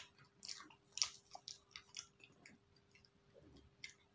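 Close-up chewing of soft bread and ice cream: quick wet clicks and smacks of the mouth, thick in the first two seconds or so and sparser after.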